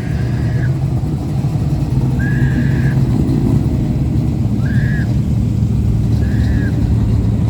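Engines of show trucks running with a steady low rumble, with four short high tones that rise and fall in pitch, spaced a couple of seconds apart.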